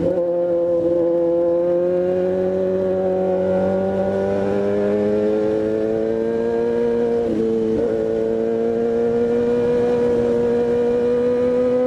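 Motorcycle engine running under steady throttle, its pitch climbing slowly, with two brief dips in pitch about seven and a half seconds and eight seconds in.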